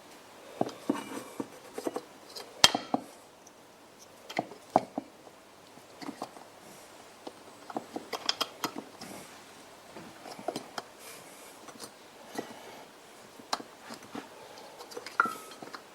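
Irregular light clicks, taps and rustles of small objects and paper being handled in a small room.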